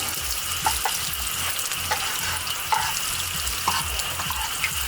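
Shredded potato and tomato pancake sizzling in hot oil in a frying pan: a steady hiss with scattered small crackles.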